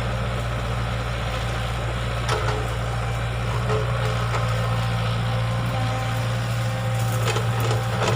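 Excavator's diesel engine running steadily, with a few brief knocks about two seconds in and again near the end.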